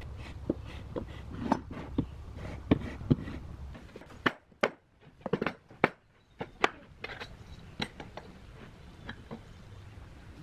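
Irregular sharp knocks and clicks over a low steady hum that cuts off about four seconds in.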